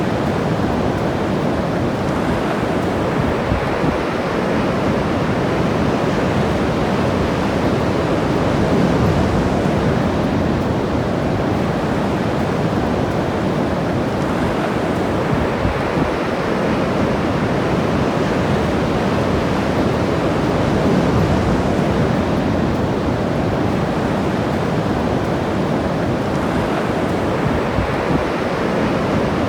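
Ocean surf washing onto a beach: a continuous wash of breaking waves that swells gently every several seconds.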